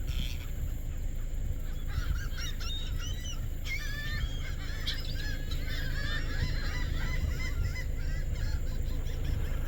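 A flock of geese honking, many short calls overlapping and continuing to the end, from about two seconds in, over a steady low rumble.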